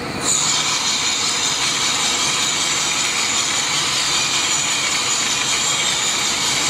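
CNC machine cutting metal: a steady machining noise, high-pitched and even.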